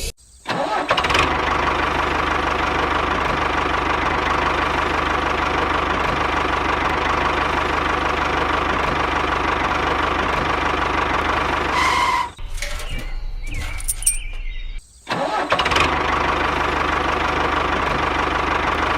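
Motor of a homemade mini tractor running steadily with a held whine. It cuts off about twelve seconds in and starts up again about three seconds later.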